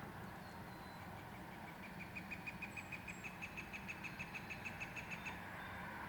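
Northern flicker giving its long call: a rapid, even run of about seven sharp notes a second, starting faint and growing louder, lasting about four seconds before stopping. A few thin, high chirps from other small birds sound over a low background rumble.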